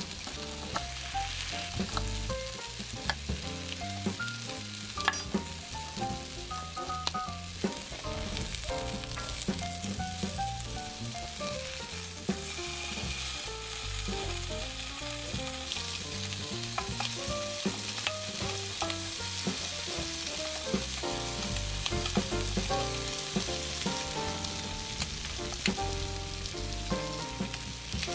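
Food sizzling on a hot multi griddle: peppers, asparagus and a bacon-wrapped camembert cooking, with knife cuts on a wooden board near the start. A light tune with distinct notes plays over it.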